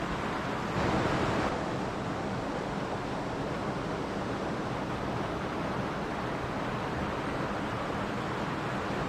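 Mountain stream flowing over rocks, a steady rushing of water with a brief louder surge about a second in.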